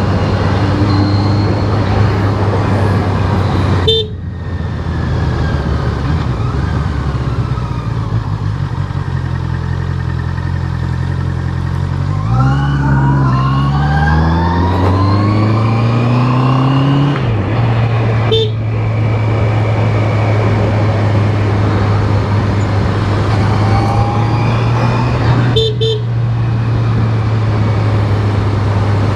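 Honda CBR650R inline-four engine running steadily under way. About halfway through, its note climbs for several seconds as it revs up, then settles back to a steady drone, with three very brief breaks in the sound.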